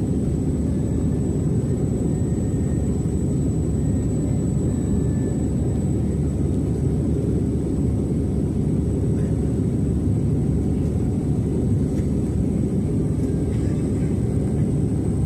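Steady low rumble of an airplane in flight, unchanging throughout, with a faint high steady whine above it.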